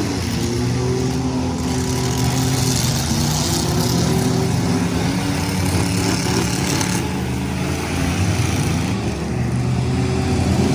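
Several full-size demolition derby trucks' engines running and revving together, their pitch rising and falling as they push and ram one another.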